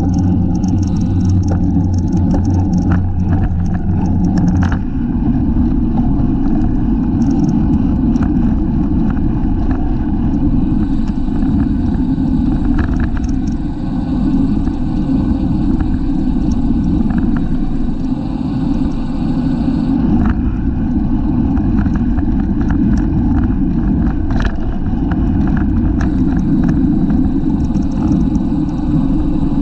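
Wind rushing over a bicycle-mounted camera's microphone at race speed, a loud steady rumble, with scattered clicks and rattles from the bike. A low hum is mixed in and stops about five seconds in.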